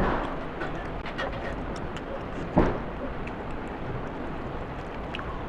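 Mouth sounds of someone eating: small wet clicks of chewing and one louder sharp sound about two and a half seconds in, over a steady background hiss.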